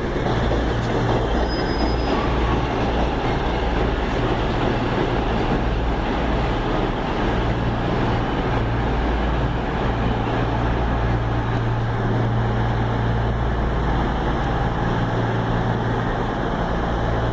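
Diesel multiple-unit train running at the station with a steady low engine drone.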